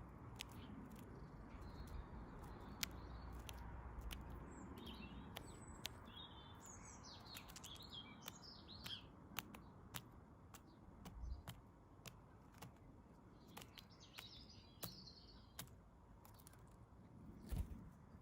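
Faint chirping and twittering of small garden birds at a feeder, in two spells, with scattered sharp clicks and taps over a low background rumble.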